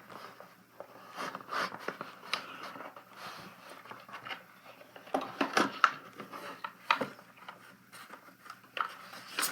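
Irregular clicks, scrapes and rustles of packaging and small model parts being handled during an unboxing.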